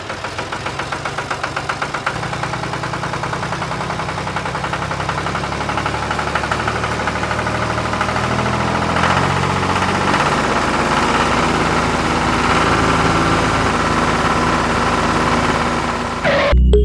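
A small engine or motor running steadily, with a fast even pulsing as it starts up that smooths into a steady hum. Music comes in at the very end.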